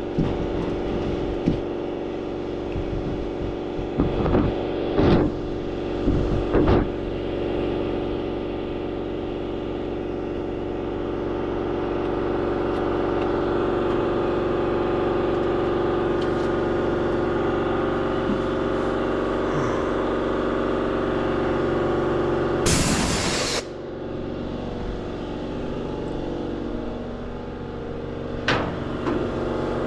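A machine runs steadily with an even hum. There are a few metallic knocks and clanks early on, and about two-thirds of the way through comes a loud hiss lasting about a second, like a blast of air or spray.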